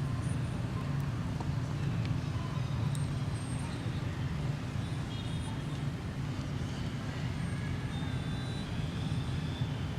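Steady low motor-like rumble of outdoor background noise, with a few faint, short high chirps over it.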